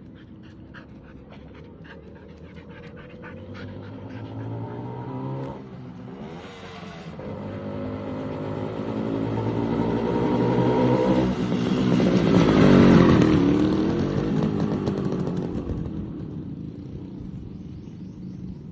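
Motorcycle engine approaching and passing close by. Its note drops and climbs again partway through as the rider shifts gear, reaches its loudest about two-thirds of the way in, then fades as it moves away.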